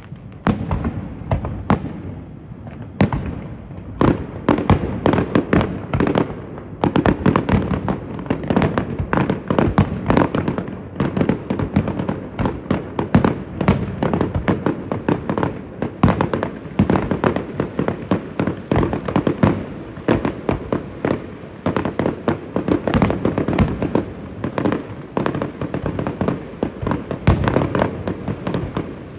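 Aerial fireworks going off: shell bursts and crackling, the reports spaced out at first and then thickening after a few seconds into a near-continuous barrage of overlapping bangs and crackles.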